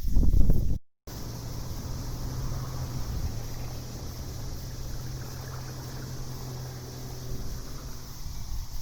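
Outdoor night ambience: a steady hiss with a low, steady hum, probably a distant motor. It follows a brief loud rumble and a sudden cut-out about a second in, and the hum fades out near the end.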